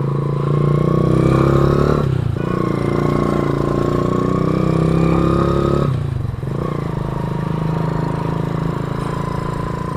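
Honda CD 100 four-stroke single-cylinder engine on a motorised BMX, running under way and pulling up through the gears. Its pitch climbs slowly, drops briefly about two seconds in and again about six seconds in, then holds steady.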